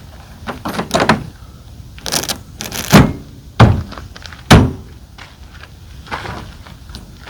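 A run of knocks and thuds from gear and truck parts being handled and shut, the three loudest about three, three and a half and four and a half seconds in.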